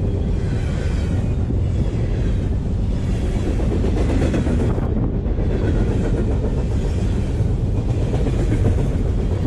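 Freight cars carrying empty garbage containers rolling past at close range, steel wheels on rail making a steady loud rumble, with a faint high squeal now and then.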